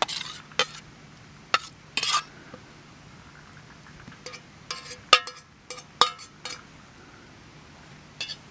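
Metal cooking utensils knocking and clinking against cookware, about a dozen irregular strikes, some ringing briefly.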